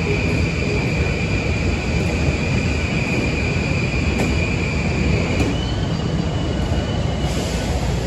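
A train passing close by with a steady heavy rumble, and a steady high-pitched wheel squeal that stops about five seconds in.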